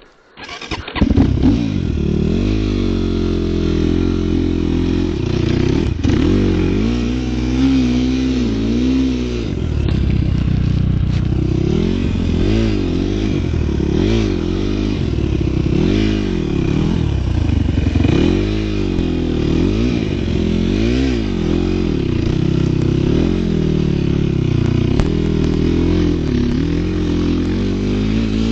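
Small motor vehicle engine running, its pitch rising and falling again and again as it is revved while ridden over snow. It comes in about a second in.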